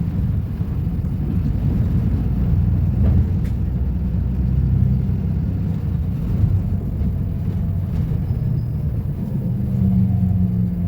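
Volvo B250RLE city bus engine running, a steady low rumble, with a slightly steadier hum coming up near the end.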